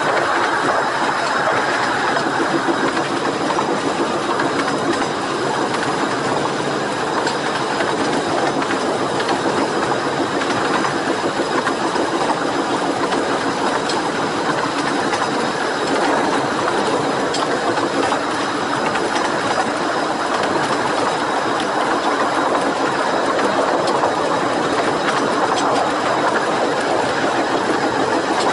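Carriages of a 15-inch gauge steam-hauled train running along the line: a steady rolling rumble of wheels on rails, with a few faint clicks from the track.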